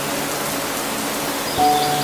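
Steady rain hiss mixed with soft music of long held notes; the notes fade and a new chord comes in about one and a half seconds in.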